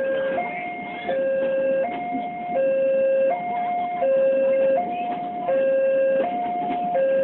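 Railway level-crossing warning alarm sounding: an electronic two-tone signal that alternates evenly between a low and a higher tone, about three-quarters of a second each, over and over, warning that a train is approaching.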